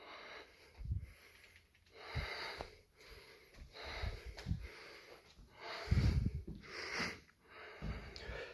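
A person's breathing, loud, rough breaths about once a second, with low thumps under several of them.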